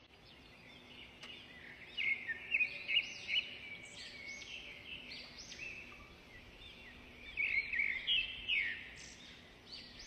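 Birds chirping and singing, many short arching calls overlapping, busiest about two to three seconds in and again around eight seconds in.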